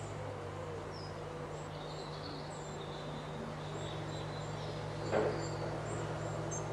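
Small songbirds chirping and whistling in short high calls over a steady low hum, with a brief soft noise about five seconds in.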